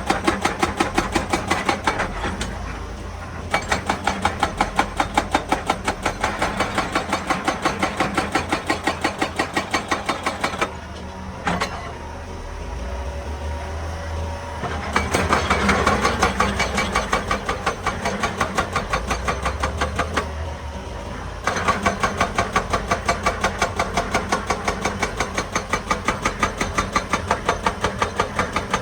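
Hydraulic rock breaker on a Hitachi EX200 excavator hammering rock in rapid, even blows, stopping briefly three times, with the excavator's engine running underneath.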